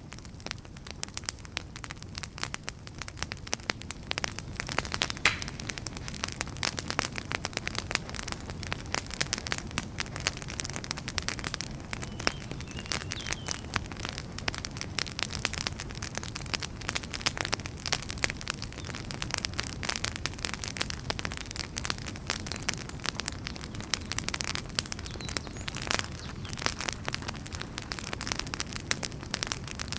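Wood fire crackling steadily, with many sharp pops and snaps over a low rumble of burning.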